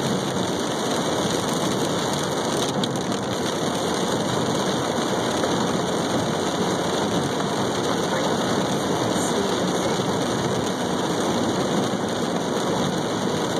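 Steady engine and road noise of a car driving, heard from inside the cab.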